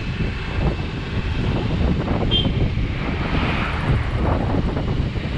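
Wind buffeting the microphone in a steady low rumble, typical of a camera carried on a moving bicycle. A short high chirp sounds about two seconds in.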